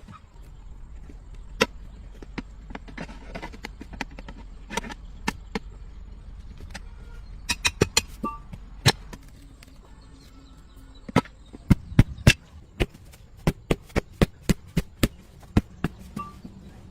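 Hand-tool work: a run of sharp, irregular knocks and clicks, thickest in the middle and again through the last several seconds, over a low hum that stops about halfway through.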